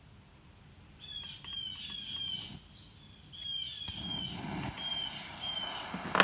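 A bird calling in a series of short whistles that fall in pitch, repeated every half second or so with a pause in the middle. A faint hiss comes in about four seconds in, and a sharp click sounds at the very end.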